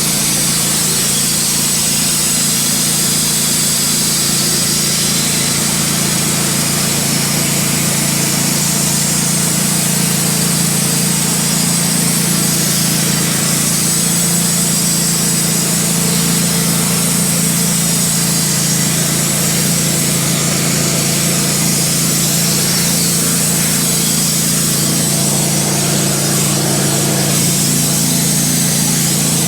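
Wood-Mizer LT15 band sawmill running steadily, its blade sawing through a maple log.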